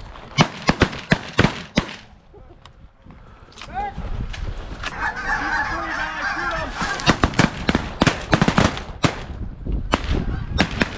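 A quick string of shotgun blasts in the first two seconds, then a flock of geese honking from about four seconds in, with more shotgun shots fired into it through the second half.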